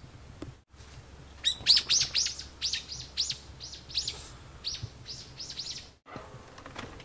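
A small bird calling: a quick run of about fifteen high chirps, starting about one and a half seconds in and breaking off near six seconds.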